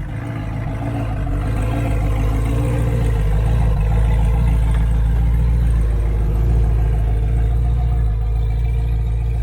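Loud car engine running with a deep, steady note, growing louder over the first few seconds and then holding steady.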